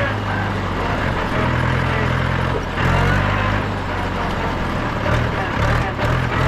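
Mahindra 475 DI tractor's 2730 cc four-cylinder diesel engine running under way, its note shifting and dipping a few times.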